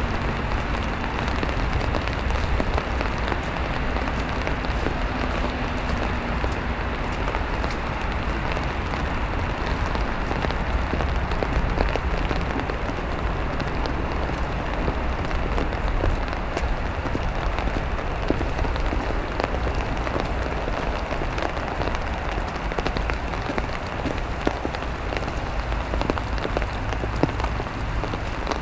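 Steady rain mixed with wet snow falling, with scattered ticks of individual drops over a low rumble.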